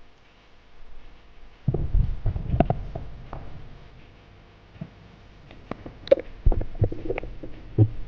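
Muffled low thuds and rumbling with scattered sharp clicks, in two bursts, about two seconds in and again from about six seconds: handling and movement noise from a diver's camera underwater.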